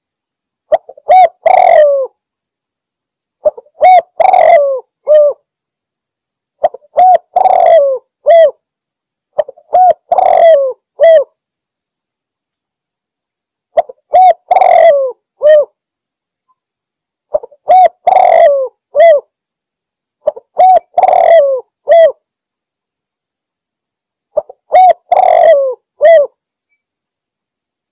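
Spotted dove (tekukur) cooing: about eight phrases of several low coos each, one every three or four seconds, with dead silence between them.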